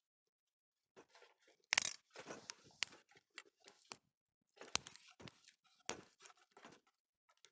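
Dry driftwood being handled and broken for a campfire: irregular sharp cracks and short crunching, splintering sounds.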